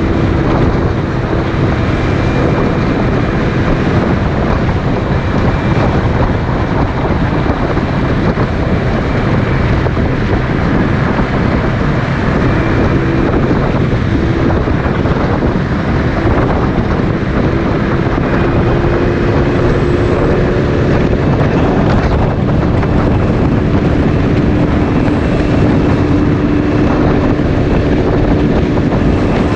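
Motorcycle riding along at steady speed: loud wind rush on the microphone over the engine's steady hum.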